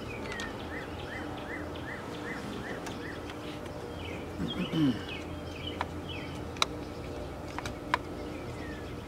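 Birds singing, one repeating a short falling chirp about twice a second for the first few seconds, over steady low background noise. A brief low falling sound comes about halfway through, and two sharp clicks follow near the end as the plastic brake fluid reservoir parts are handled.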